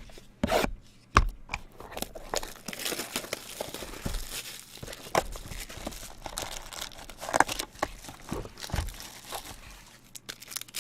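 Plastic and foil card packaging being torn open and crinkled by hand, with a run of crackling and sharp snaps as the wrapper is ripped and handled.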